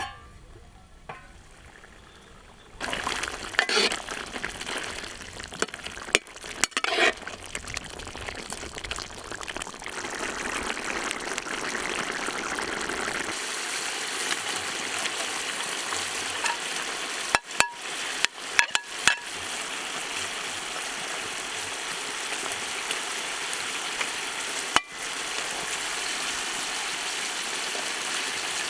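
Food sizzling in hot oil in a cooking pot over a campfire. It sets in about three seconds in and stays steady, with a few sharp clinks, likely a utensil against the pot, around the middle.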